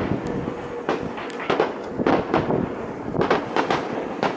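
Aerial firework shells bursting, a string of about eight bangs at irregular spacing, each trailing off in an echo.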